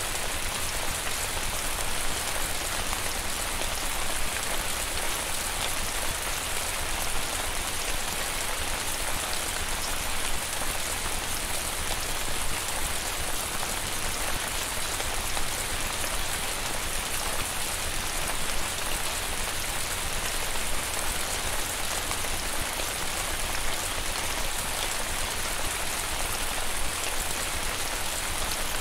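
Steady rain falling: an even, continuous hiss of many fine drops, with no let-up and no wind gusts.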